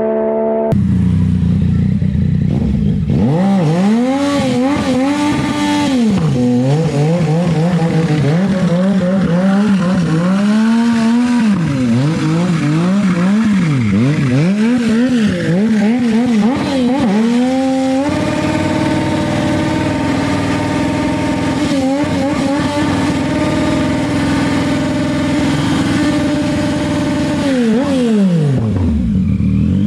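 Yamaha MT-09's three-cylinder engine. After a short steady stretch, its revs rise and fall over and over, each swell lasting about a second. About halfway through it jumps to a steady high pitch held for around nine seconds, then winds down near the end.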